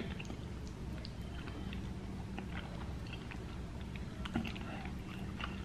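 Quiet chewing of a forkful of mashed potatoes and peas, with faint scattered clicks and a small knock a little past four seconds as a plastic fork scrapes the food dish.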